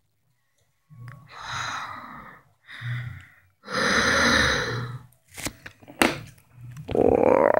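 Ghostly breathy sighs and gasps, four in a row, followed by two sharp clicks; a loud wavering pitched sound begins near the end.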